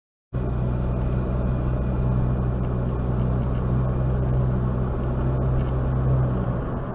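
A car driving, heard from a dashcam: a steady low engine and road drone that starts abruptly a moment in.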